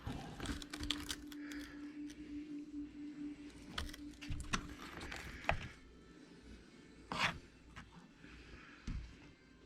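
Scattered light clicks and scrapes of pliers and small metal parts being handled, with a faint steady hum through the first half.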